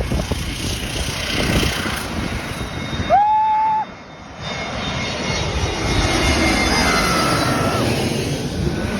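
Jet airliner's engines running as it lands, a steady loud rush of engine noise. A brief whistle-like tone cuts in about three seconds in, and a fainter one comes near seven seconds.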